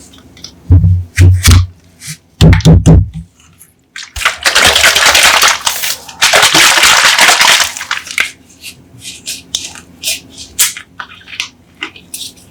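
Coca-Cola soda bottles being handled and opened: two clusters of heavy cracks and knocks, then two long loud rushes of fizzing hiss, then many small scattered crackles of carbonation.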